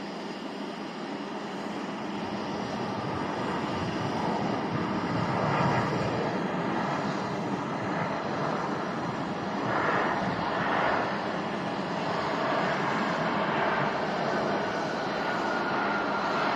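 Airliner engines, growing louder as the aircraft nears and swelling twice. A high whine falls slowly in pitch near the end.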